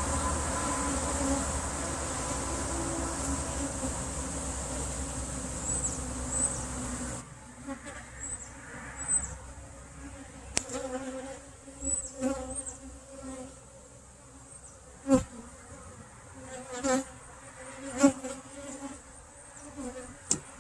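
Honey bees buzzing around an open hive, the hum swelling and fading as bees fly close past. A steady background noise cuts off about seven seconds in, and a few sharp clicks sound later.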